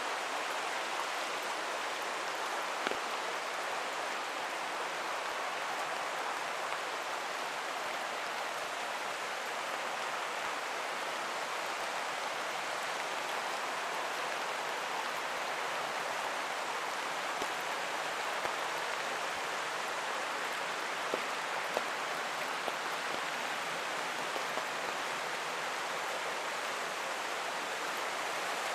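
Steady rushing of a running creek mixed with falling rain, with a few scattered drop ticks.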